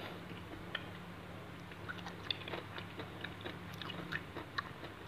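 A person chewing raw shrimp in fish sauce: irregular small wet clicks, smacks and crunches from the mouth, close up.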